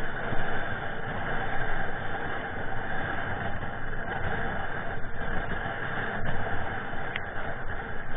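Strong, gusty wind buffeting the microphone: a continuous rushing noise that swells and dips.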